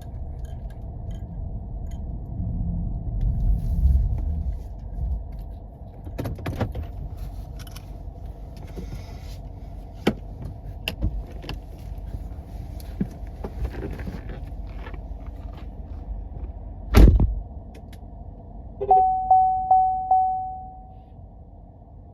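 Low rumble of a vehicle on snowy roads, heard from inside the cab, with scattered clicks and rattles. A loud thump comes about seventeen seconds in. From about nineteen seconds in, a steady electronic chime dings four times, each ding fading.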